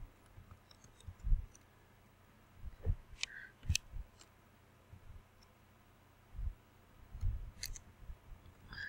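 Computer mouse clicks and handling knocks: a few sharp clicks, about three seconds in and near the end, among soft low knocks.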